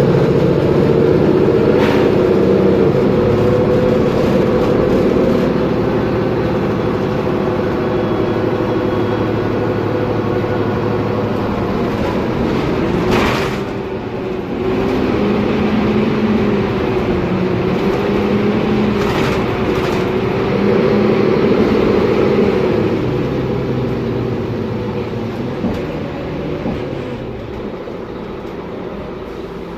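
Mercedes-Benz Conecto G articulated city bus under way, its OM457LA six-cylinder diesel and driveline running with a whine whose pitch rises and falls, heard alongside the differential. A few short knocks or rattles come through, around two, thirteen and nineteen seconds in, and the sound eases off near the end.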